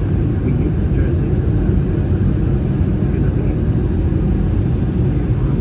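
Steady low roar inside the cabin of an Airbus A319 in flight: the noise of its CFM56 engines and the airflow over the fuselage.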